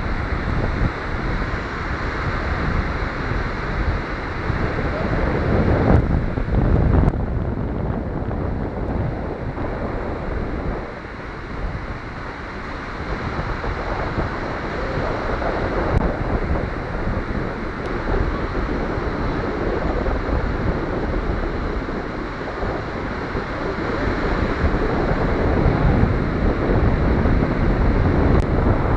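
Wind gusting across the microphone with an uneven low rumble, over the steady wash of ocean surf.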